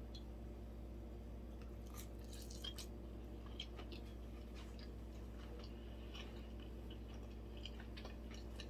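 Faint chewing of sushi close to the microphone, with soft clicks and small wet mouth sounds over a steady low hum.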